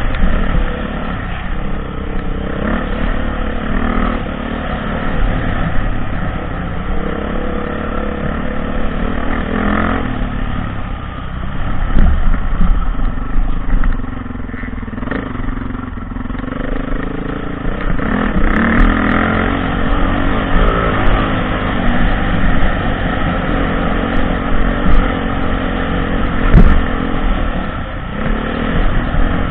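Off-road dirt bike engine running under load, revving up and down in pitch as the rider works the throttle, with a few sharp knocks along the way.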